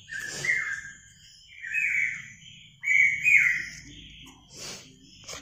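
A bird singing short whistled phrases, three of them about a second apart.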